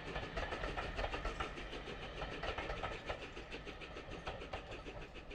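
Railway carriages rolling past, their wheels clattering over the rails in a quick, even run of clicks that slowly fades as the train moves away.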